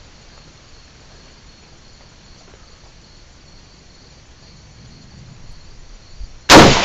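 Crickets chirping steadily and faintly. Near the end, a single loud shot from an AK-pattern 7.62x39 rifle cracks out and echoes away.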